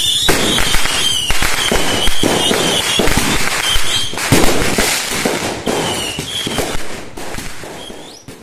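Fireworks going off: rapid crackling bangs with a high, wavering whistle over them, fading out near the end.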